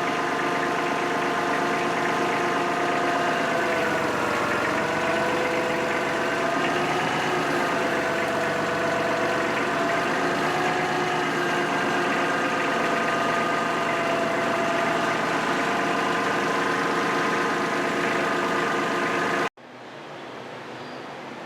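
A motor running steadily with a couple of slight dips in pitch, stopping abruptly near the end and leaving a quieter hiss.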